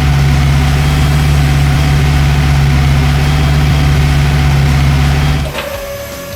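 Vehicle engine idling with a steady low rumble, cutting off about five and a half seconds in and giving way to quieter steady tones.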